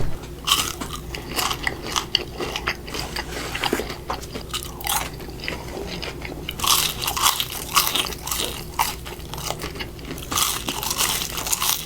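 Close-miked mouth sounds of a person biting and chewing fast food (burger and fries), with irregular crunches and wet smacks. The eating gets busier about seven seconds in and again near the end.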